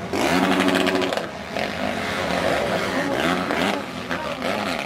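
Motocross bikes racing, their engines revving up and down as they accelerate and shift. The loudest bike is in the first second or so, and other bikes keep running behind it.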